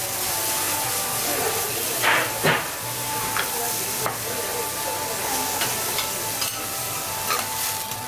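Food sizzling on a hot cooking surface as it is freshly cooked. Every second or so a cooking utensil clicks or scrapes against it.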